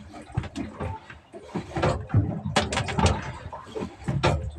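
Irregular knocks, clicks and low thuds of handling gear on a small fishing boat, with no steady engine tone.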